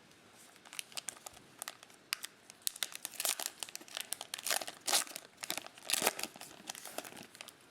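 A foil trading-card pack wrapper being crinkled and torn open by hand, with a dense run of sharp crackles.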